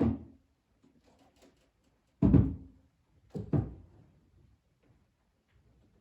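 Household knocks and thuds: a knock at the start, a louder, deeper thud a couple of seconds later, then two quick knocks close together, with faint small clicks in between.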